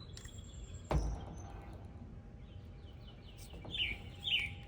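A bird chirping, short falling chirps repeated about twice a second in the second half. There is a single sharp knock about a second in.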